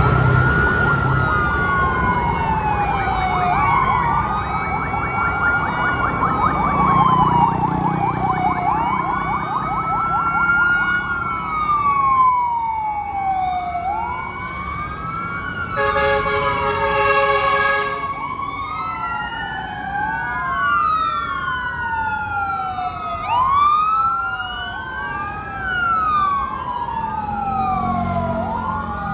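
Sirens of a passing fire-truck convoy wailing, each rising and falling over a couple of seconds, with several sirens overlapping out of step later on. A steady horn blasts for about two seconds halfway through, over low truck-engine rumble.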